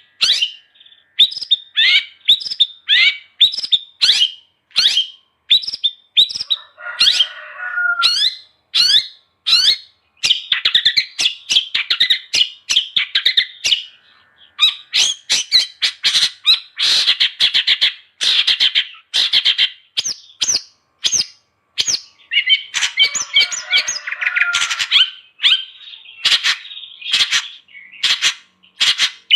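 Long-tailed shrike (cendet) in full song: a fast, varied string of sharp chirps and whistled notes, twice broken by harsh scratchy chattering.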